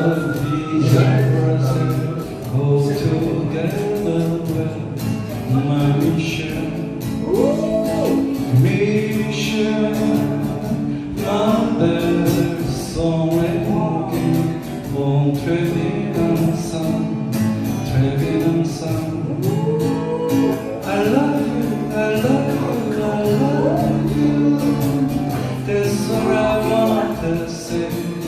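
A man singing to strummed acoustic guitar, with a steady strumming rhythm under the melody.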